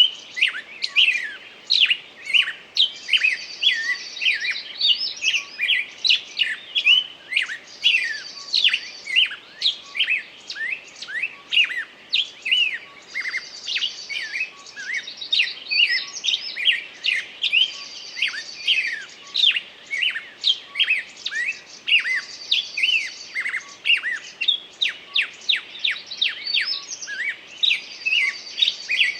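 A bird singing: a continuous run of quick chirps and short sweeps, with a higher trill recurring every few seconds.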